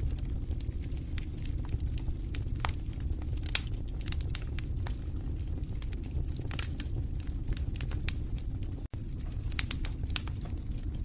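Wood fire in a fireplace crackling, with frequent sharp, irregular pops over a steady low rumble of burning. The sound cuts out for an instant about nine seconds in.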